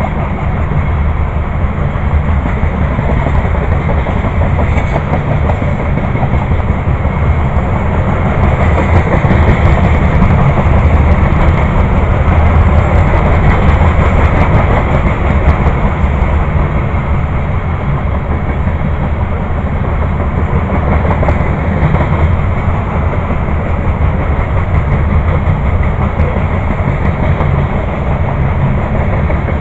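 Freight train of grain hopper cars rolling past, a steady loud rumble of steel wheels on rail that swells slightly for several seconds about a third of the way in.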